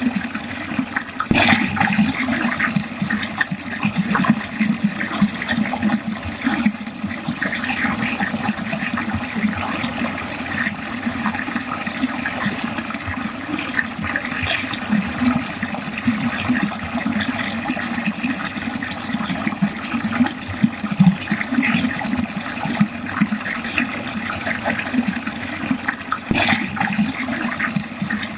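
Water pouring and gurgling down a drain in a continuous, uneven flow, with a louder splash about a second in and another near the end.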